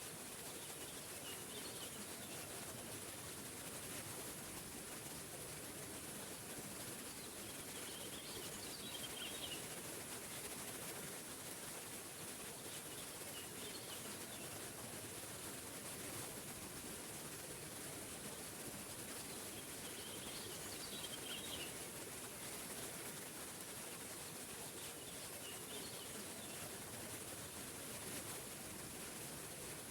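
Small forest waterfall rushing steadily, with birds chirping briefly every several seconds in the background.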